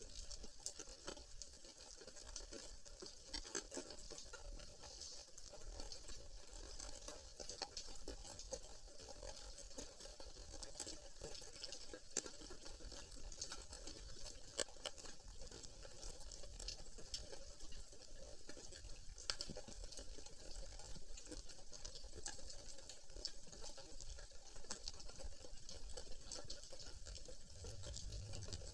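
Sea water: a steady patter of many small crackles and splashes.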